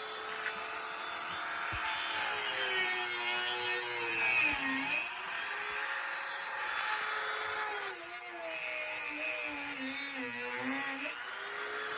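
Dremel rotary tool running and cutting into a pine Pinewood Derby block. Its whine drops in pitch each time the bit is pressed into the wood and rises again as it is eased off, with bursts of high grinding hiss during the cuts.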